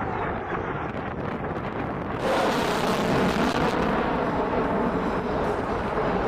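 Jet roar from an F-35A Lightning II's single Pratt & Whitney F135 afterburning turbofan. It turns abruptly louder and brighter about two seconds in.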